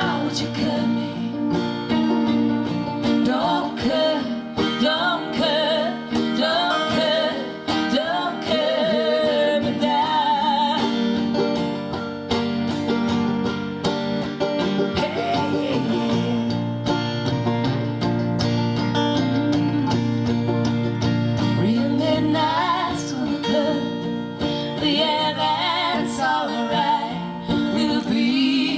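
Americana band playing live: an instrumental passage with acoustic guitar over sustained bass notes and a wavering lead melody above.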